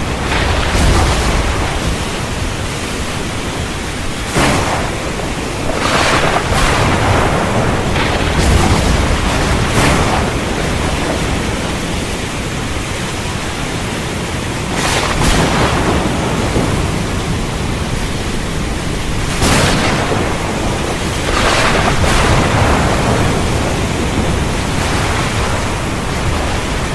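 Heavy rain falling steadily in a thunderstorm, with sharp cracks of thunder breaking through the downpour about ten times.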